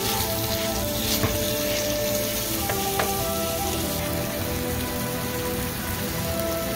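Chopped onions and tomatoes sizzling steadily in hot oil in a kadai, a hiss like light rain. Soft background music with held notes plays along.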